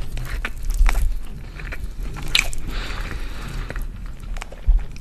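Close-miked eating sounds: chewing a mouthful of kabsa chicken and rice, with irregular wet mouth clicks and squishes, and fingers pulling apart the soft chicken.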